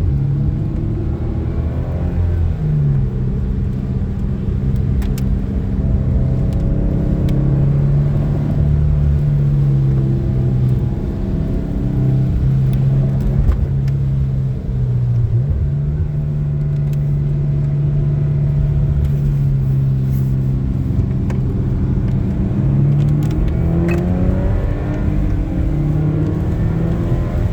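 Car engine heard from inside the cabin while driving, its note holding steady for stretches and rising and dropping sharply a few times as the car speeds up and shifts.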